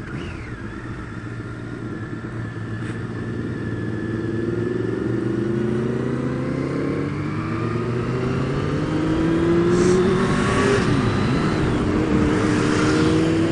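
Motorcycle engine pulling up through the gears: its pitch climbs steadily, drops back at a gear change twice, and it grows louder as the bike speeds up.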